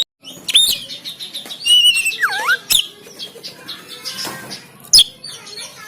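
Oriental magpie-robin (kacer) singing: rapid high whistled notes and trills, a whistle that swoops down and back up about two seconds in, and sharp harsh snapping calls, the loudest near the end.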